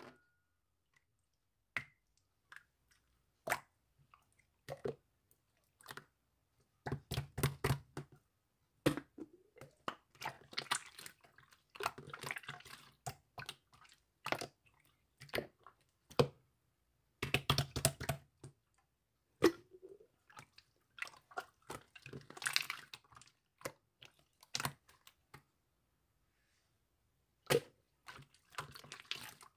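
Clear slime being worked by hand: scattered sticky clicks and pops, then bursts of crackling squelches with short pauses between.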